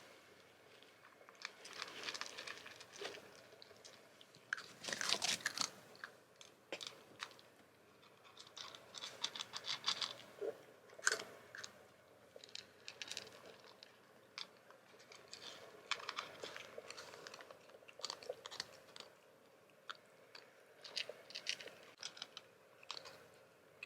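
A kitten chewing and crunching, in irregular runs of small sharp clicks.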